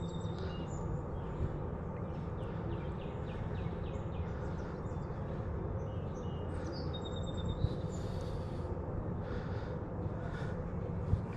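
Small birds chirping and calling in short repeated notes over a steady low rushing background.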